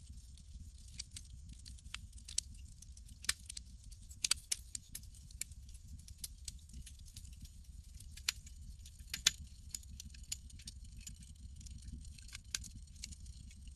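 Campfire crackling: irregular sharp pops and snaps, louder ones about four and nine seconds in, over a steady low rumble.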